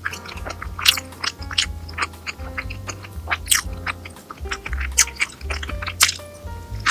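Close-up eating sounds: chewing and sharp, crunchy bites and clicks, several a second, over soft background music with a steady bass.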